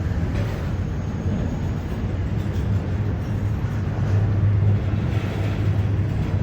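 A train running, a steady low hum over an even rumble.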